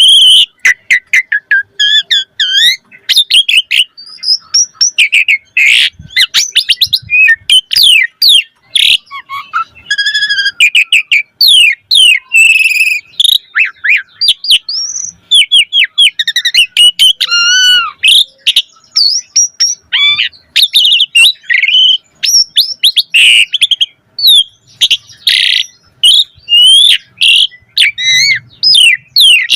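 Pied starling (jalak suren) singing without pause: a rapid, varied stream of loud whistles, chirps and rising and falling notes, full of changing phrases.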